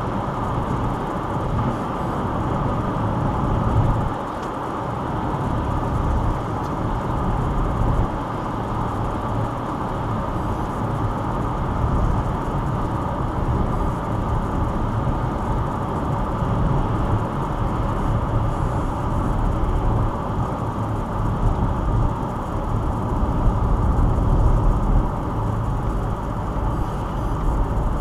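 Steady road noise inside a moving car: tyre roar on a wet road with a low engine and drivetrain rumble, picked up by a windshield dashcam's microphone.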